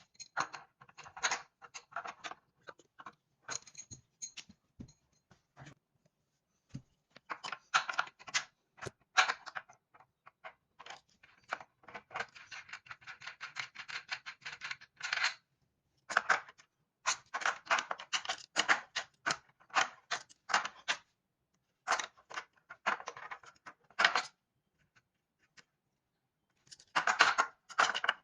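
Bursts of clicking and scraping from hand tools and metal parts being handled while an exercise bike is taken apart, with gaps of silence between. About halfway through comes a run of rapid, even clicks lasting about three seconds.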